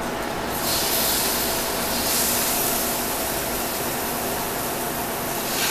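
Tofu frying in hot oil in a wok: a loud sizzle that starts about half a second in and swells again around two seconds. Frying the tofu first in the oil sets a layer on the outside so it doesn't break up later with the rice.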